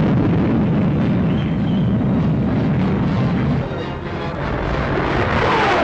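Vickers 535 experimental jet fighter with its Rolls-Royce Nene turbojet, a loud steady roar as it flies past. Near the end a whine falls in pitch as the jet goes by.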